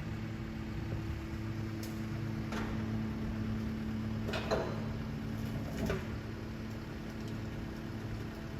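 A vehicle engine idling with a steady low hum, with three short sharp sounds over it about two and a half, four and a half and six seconds in.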